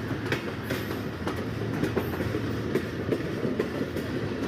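Train running on the rails: a steady rumble with the wheels clacking sharply over the rail joints, about two clacks a second at uneven spacing.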